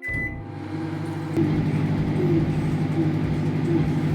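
Microwave oven starting with a short beep, then running with a steady hum. The hum steps up in loudness about a second and a half in.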